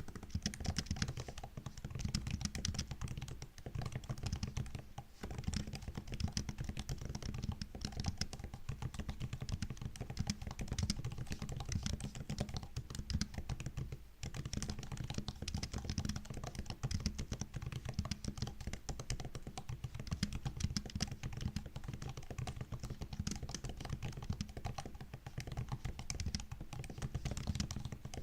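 Continuous typing on a MacBook laptop keyboard: a dense stream of quick key clicks, broken by a few short pauses.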